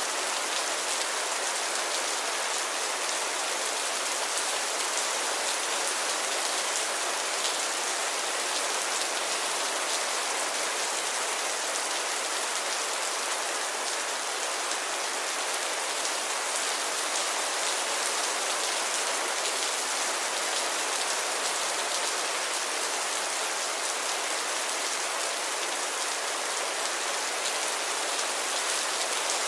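Steady rain falling, an even hiss of many drops pattering on a surface, with no thunder or change in intensity.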